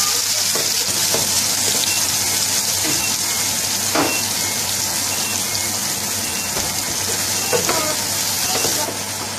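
Sliced onions and grated garlic sizzling in ghee in a metal frying pan, stirred with a wooden spoon that knocks against the pan a few times. The hiss eases a little near the end.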